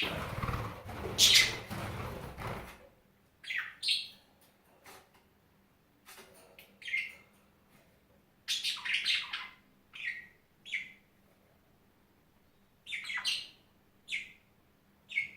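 Birds chirping: short calls that each fall quickly in pitch, coming singly and in small clusters with pauses between. A loud rustling noise fills the first three seconds.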